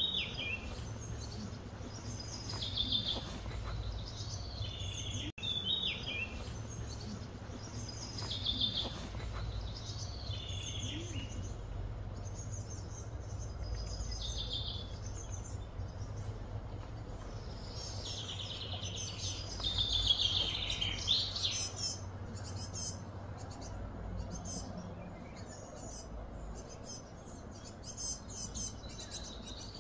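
Small birds calling and chirping in short repeated phrases, over a steady low background hum. The sound drops out for an instant about five seconds in.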